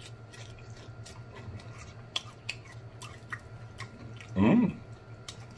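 Chewing a mouthful of crispy fried chicken: many short crunchy clicks and mouth smacks, with a short hummed 'mm' about four and a half seconds in.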